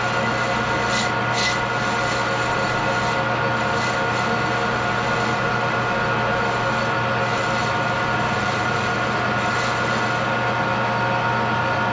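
Metal-working machine tool running steadily, a constant mechanical hum of several steady tones over a noisy whir, with a few brief higher hissing scrapes.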